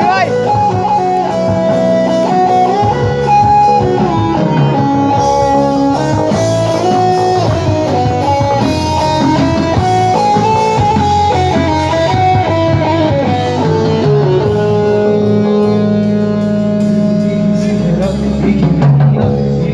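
Live rock band playing an instrumental passage with no singing: a lead melody line stepping up and down over guitar chords, bass and drum kit.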